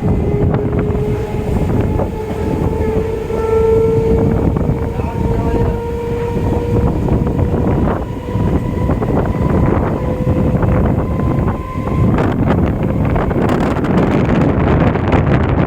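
Running noise of an EMU local train heard from inside the coach: a steady rumble of wheels on the track with the electric traction motors' whine rising slowly in pitch as the train gathers speed. Near the end, a rushing, windy noise grows louder.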